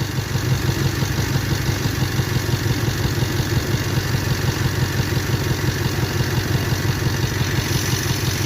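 1998 Toyota 4Runner four-cylinder engine idling with a misfire.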